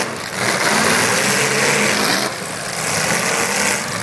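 Engines of several eight-cylinder demolition derby cars running and revving together in a loud, continuous din, dipping briefly at the start and again about halfway through.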